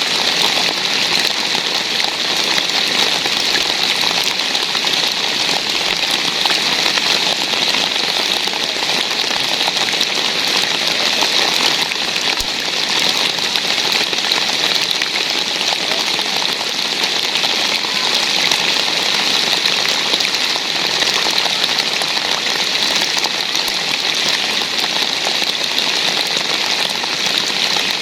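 Rain falling steadily: a dense, even hiss of drops with fine patter, unchanging throughout.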